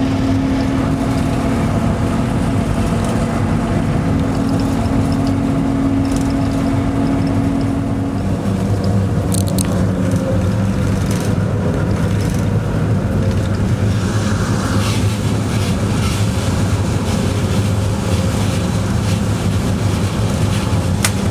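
A locomotive running, heard from inside its cab: a loud, steady machinery hum over the rumble of the train moving on the rails. About nine seconds in, the hum drops to a lower pitch and holds there, with a couple of short clicks around the change.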